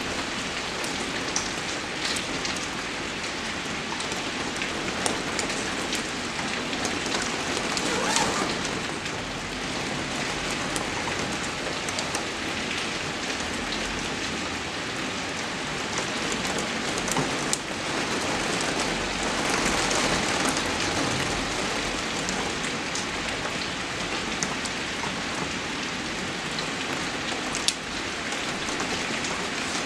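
Steady rain falling, with scattered sharper drop hits and slight swells in intensity.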